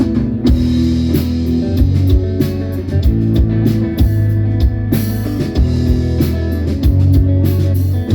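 Live rock band playing an instrumental intro: electric guitar, bass guitar and drum kit, with regular drum hits under held guitar chords.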